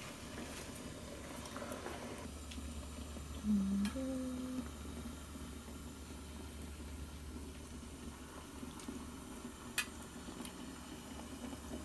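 Hot pot broth boiling in the pot under a steady low hum, with a brief hummed note about three and a half seconds in and a sharp click near ten seconds.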